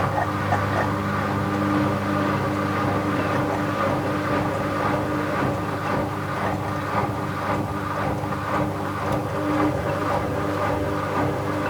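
Bauknecht WA 7778 W washing machine running, its motor driving the drum with a steady hum and a faint rhythmic swish about twice a second. The drum bearing is already wearing, though the damage is still mild.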